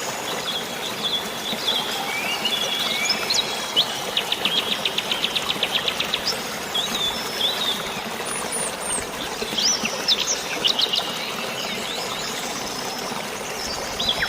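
Birds chirping and calling over a steady rush of water. About four seconds in, one bird gives a fast trill lasting about two seconds, and scattered chirps and whistles follow.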